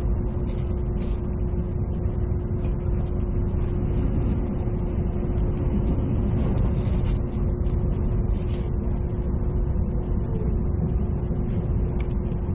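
Running noise heard inside a passenger car of an E657 series electric train: a steady low rumble of wheels on rail with a constant hum.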